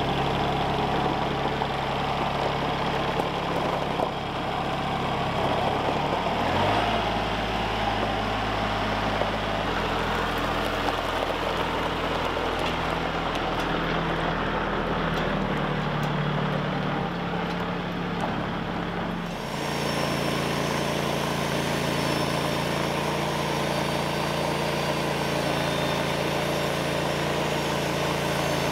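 An engine running steadily. Its low note steps to a different pitch a few times, and the whole sound changes abruptly about two-thirds of the way through.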